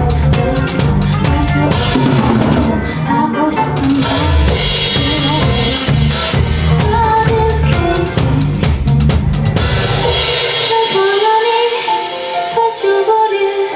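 Live band playing an instrumental passage with a full drum kit, bass drum, snare and rimshots, over bass and melodic instruments. About ten seconds in, the bass and low drums drop out, leaving higher melodic notes with lighter percussion.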